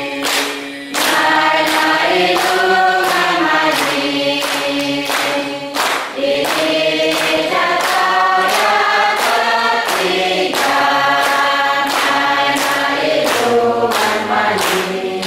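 A group of voices singing together in a choir, over a steady beat of sharp strikes.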